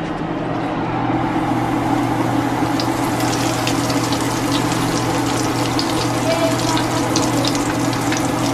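Battered king crab clusters deep-frying in a pan of hot oil: a steady bubbling sizzle that grows louder about a second in as a fresh cluster goes into the oil, with sharp crackles and pops throughout.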